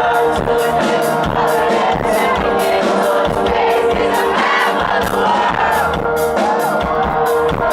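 Rock band playing live: a steady drum beat with cymbals under sustained guitar or keyboard and sung vocals, and the crowd singing along.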